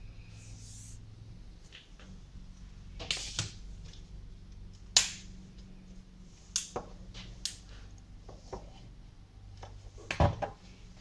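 Scattered clicks and knocks of small objects being handled and set down, the sharpest about five seconds in and a quick cluster of knocks near the end, over a faint low steady hum.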